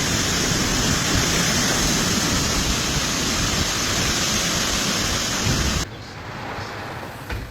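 Steady, loud rushing of a severe thunderstorm's wind and heavy rain, which cuts off abruptly about six seconds in, leaving a much quieter background with a couple of faint knocks.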